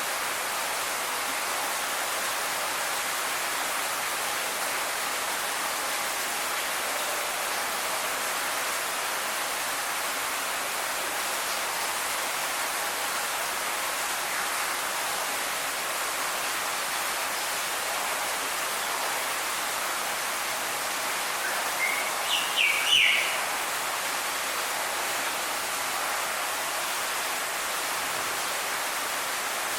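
Steady hiss of background noise, broken about three quarters of the way through by a short burst of bird calls: a few quick, rising notes over about a second.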